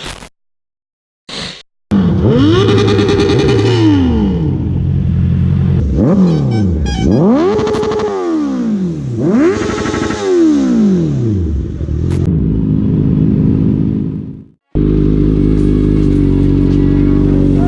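Inline-four sport motorcycle engines revved hard several times, each rev climbing fast and falling away. About fifteen seconds in, this cuts to music.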